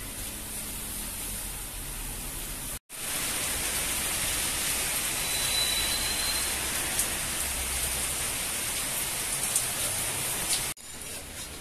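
Steady rain falling on trees and rooftops: an even hiss with a few sharp drip taps. It drops out for a moment about three seconds in and stops abruptly near the end.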